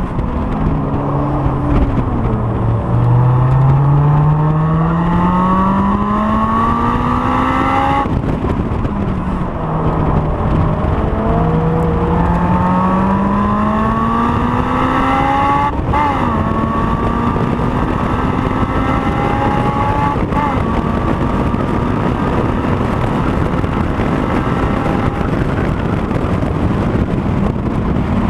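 Honda S2000's four-cylinder engine under hard track driving. The revs climb for several seconds at a time, then drop abruptly at gear changes, with a steadier stretch in the second half.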